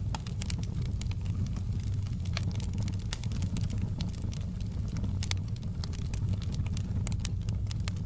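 Wood fire crackling in a fireplace: frequent sharp pops and snaps, irregular and several a second, over a steady low rumble of the flames.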